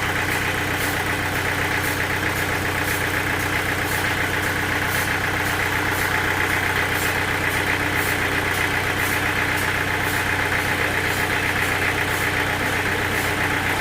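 Sawmill machinery running steadily: a constant engine-like hum with a hissing upper band and faint regular ticks.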